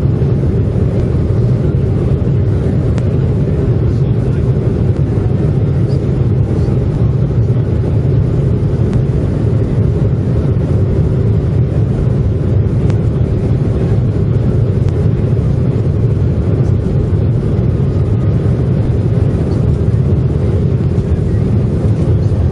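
Steady, loud low rumble of a Boeing 737-700's CFM56-7B jet engines and rushing air at takeoff power, heard as cabin noise.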